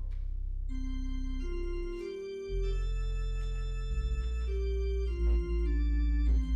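Organ music: held chords changing every second or so, with deep bass notes coming in about two and a half seconds in.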